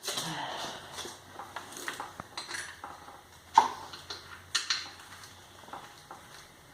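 Metal hand tools clicking and clinking as a socket ratchet and wrench work the front engine-mount bolts on a motorcycle frame, with a sharp metallic clack about halfway through.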